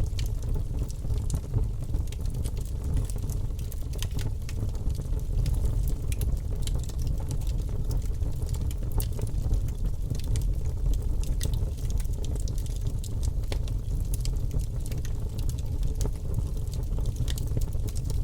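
Wood logs burning in a fireplace, crackling with frequent sharp pops and snaps over a steady low rush of the flames.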